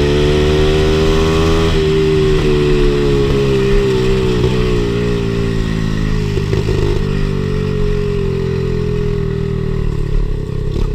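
Pit bike's small single-cylinder engine running under way. Its pitch climbs for a couple of seconds, drops about two seconds in as the gear changes, then holds fairly steady at cruising speed.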